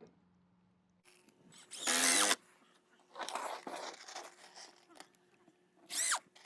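Power drill run in short trigger bursts, drilling pilot holes for screws in composite decking boards. The loudest burst is about two seconds in, a rougher run follows, and a short spin near the end winds down in pitch.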